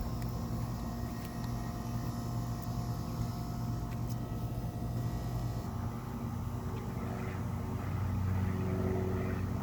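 A steady engine drone with a low hum that swells louder about eight seconds in.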